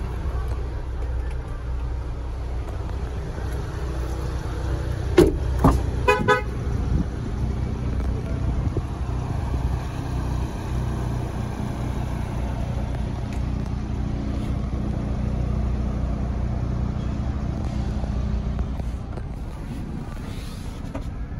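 Ford Bronco's 2.3-litre EcoBoost four-cylinder idling with a steady low hum. About five seconds in come two knocks, then a short buzzy pitched tone.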